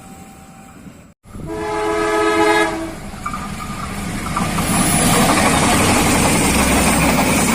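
Train sounding its horn in one blast about a second long, then the train passing close with a rising, steady rumble and rattle of wheels on the rails.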